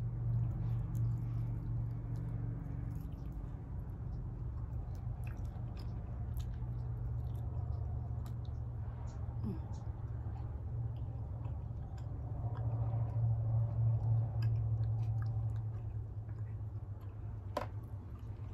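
Close-up chewing and eating: wet mouth clicks and smacks scattered through, over a steady low hum.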